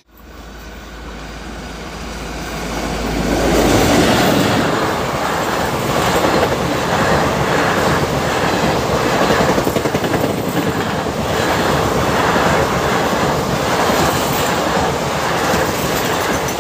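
Express train's passenger coaches running past at speed, wheels clattering rhythmically over the rail joints. The loudness builds over the first four seconds as the train arrives, then holds steady.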